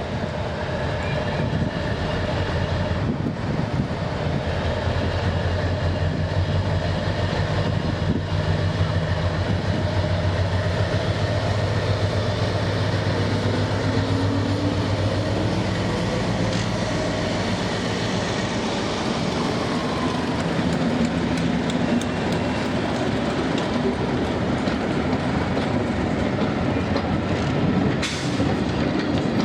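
Diesel locomotive passing, its engine giving a steady deep note that fades out after about seventeen seconds and gives way to shifting tones. Wheels click over the rail joints through the second half.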